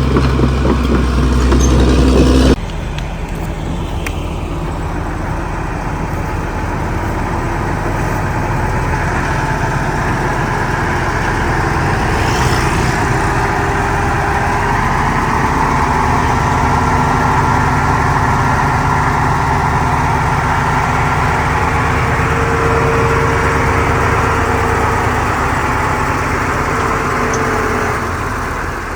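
Caterpillar D6R XL bulldozer's diesel engine running steadily and slowly growing louder. A heavier, deeper rumble gives way to it abruptly about two and a half seconds in.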